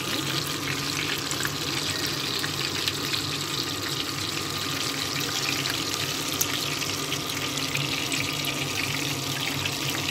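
Breaded chicken cordon bleu rolls shallow-frying in hot oil in a skillet: a steady sizzle with many small crackles and pops.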